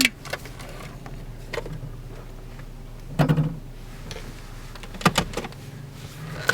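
Inside a car: a steady low hum with a few scattered clicks and knocks, the loudest a short thud about three seconds in and a sharp click about five seconds in.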